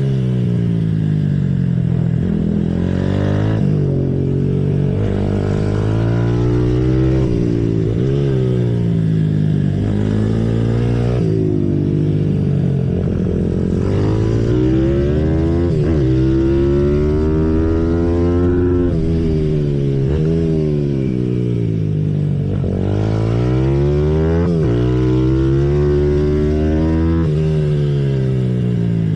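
Symoto 140cc pit bike's single-cylinder four-stroke engine lapping a track, heard from the rider's helmet. The engine note climbs hard through the gears, dips at each gearchange and falls away when he rolls off for corners, over and over.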